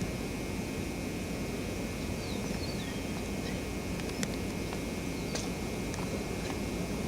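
Steady low outdoor rumble of wind, with a few short bird chirps about two to three seconds in and occasional small clicks.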